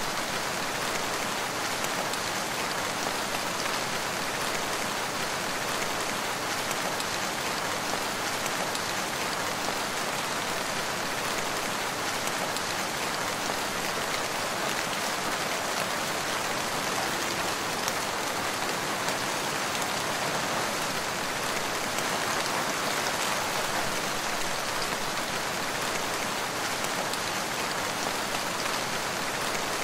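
Steady rain falling, an even hiss of many raindrops with no single drops or thunder standing out.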